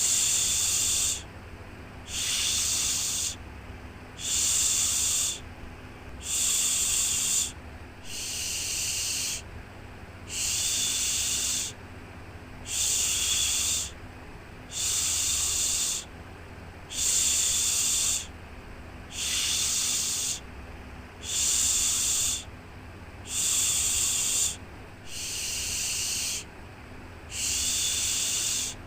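Rhythmic shushing, a 'shhh' about a second long repeated about once every two seconds, as a soothing sound for babies, over a steady low rumble.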